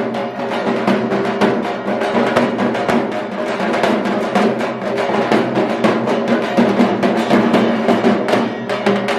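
Music with fast, dense drumming, many strikes a second over a steady tone.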